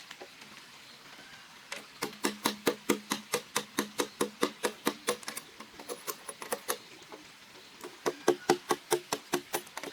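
A hand tool striking bamboo in rapid sharp knocks, about five a second, in two runs with a pause between.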